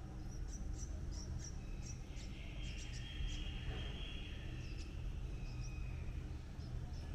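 Small birds giving short, high, thin chirps in quick runs, with a faint steady high tone held for a few seconds in the middle, over a low steady rumble of background noise.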